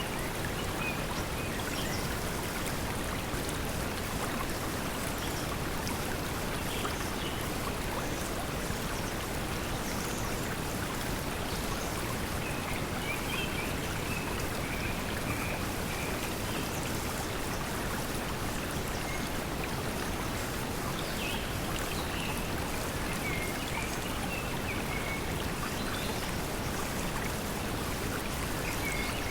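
Steady pink noise blended with the sound of a flowing stream, even and unchanging, with short bird chirps now and then.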